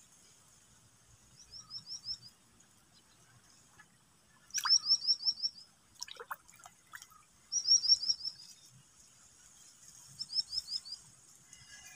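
A small bird singing: four short phrases of five or six quick, high, down-slurred chirps, spaced about three seconds apart. A few faint clicks fall between the second and third phrases.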